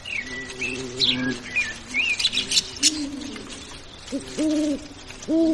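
Bird calls: several low hoots of about half a second each, the loudest near the end, over higher chirps and twitters in the first half.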